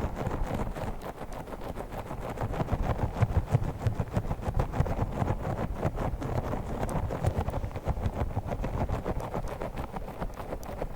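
Fast, irregular tapping and scratching of fingers on a pink star-shaped ASMR trigger object, a dense run of quick clicks and rubs.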